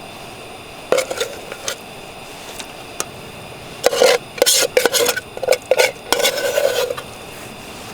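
A utensil scraping and clinking against a metal pan in short bouts, once briefly about a second in and then more busily from about four to seven seconds in, over a steady faint background.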